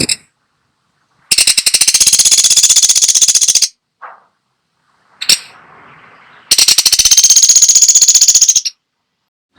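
Woodpecker (the 'pelatuk sampit' of bird-training recordings) giving two rapid rattling series, each about two seconds long. Between them come a short sharp note and a click.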